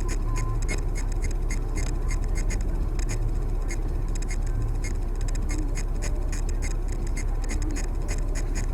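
Steady low rumble of a car's engine and road noise heard from inside the cabin, with a continuous run of sharp, light ticks about three or four times a second.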